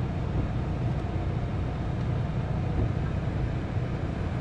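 Car engine running steadily, heard from inside the cabin as a low, even rumble.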